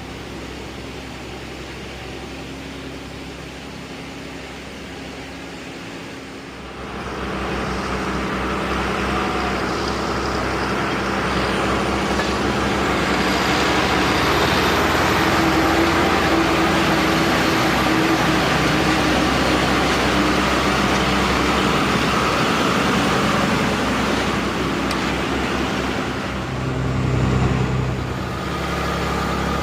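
Truck on the move: engine drone and road noise, rising sharply about seven seconds in into a loud rushing that holds for most of the rest, with a short swell near the end.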